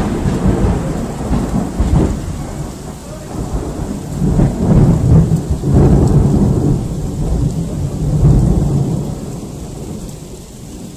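Loud rolling thunder, rumbling low with several surges and fading off near the end, over steady rain.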